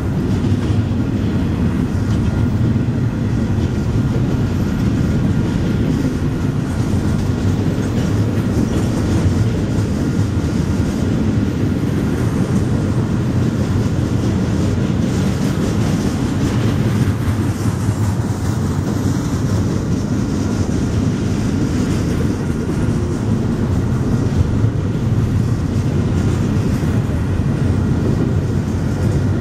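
Double-stack container freight train rolling past, its wheels giving a steady rumble on the rails.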